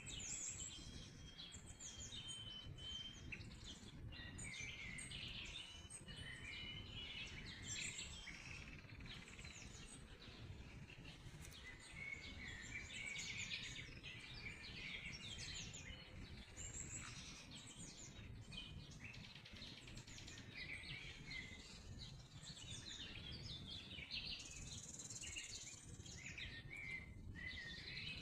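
Songbirds singing, many short chirps and trills overlapping throughout, over a faint low background rumble.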